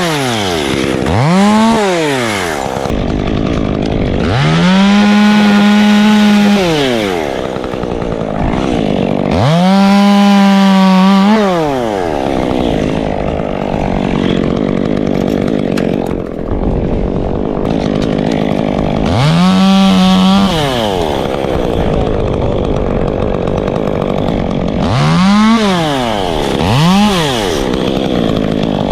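Two-stroke Stihl chainsaw revving up to full throttle and holding there for a second or two, several times over, then dropping back to idle between cuts.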